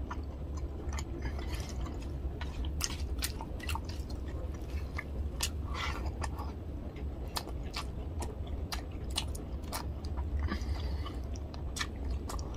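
Close-miked chewing and mouth sounds of a person eating tilapia fish curry with rice by hand: irregular sharp clicks and smacks throughout, over a steady low hum.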